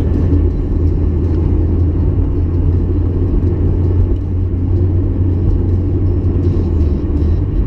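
1994 Mazda MX-5 Miata's 1.8-litre twin-cam four-cylinder driving at a steady speed: an even low engine drone with road rumble.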